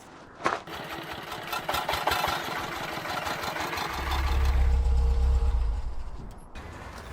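Engine running, building up and loudest with a deep rumble from about four to six seconds in, then easing off.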